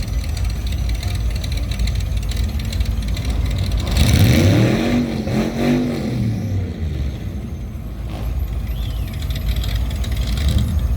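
Car engine revving up and back down twice, about four seconds in, over a steady low engine rumble.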